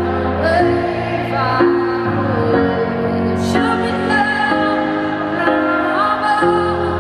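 A live pop song: a woman singing a slow melody over sustained chords that change every second or two.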